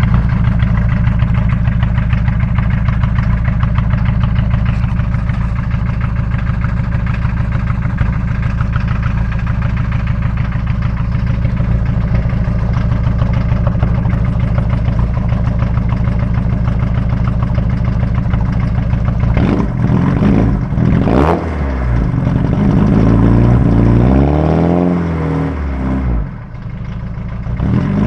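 VW Golf Mk1 1.6 four-cylinder diesel through a 3.8-inch straight-pipe exhaust, idling with a steady clatter on a cold start, then revved: a short blip about two-thirds of the way in, then a longer rev that rises and falls before settling back to idle near the end.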